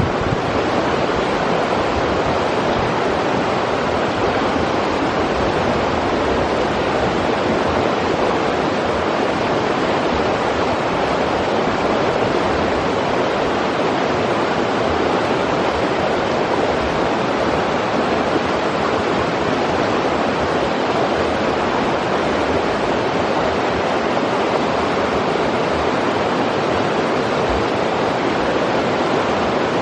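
River water rushing steadily over rocks: an even, unbroken noise, loudest in the middle of the range.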